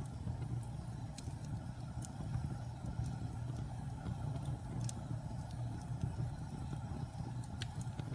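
Wood fire burning in a fireplace: a steady low rumble of the flames with a few sharp crackles and pops from the burning logs.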